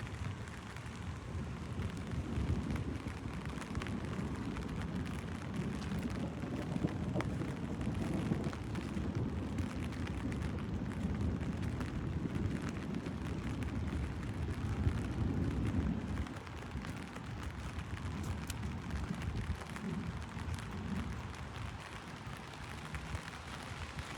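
Heavy rain drumming on an umbrella, with scattered drop ticks over a deep, steady low rumble that eases off about two-thirds of the way through.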